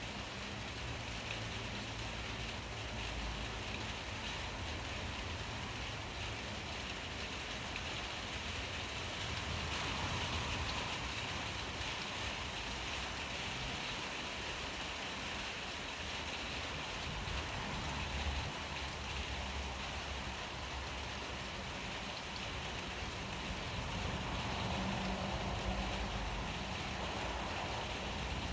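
Steady rain falling, an even hiss, with a low rumble underneath that grows stronger near the end.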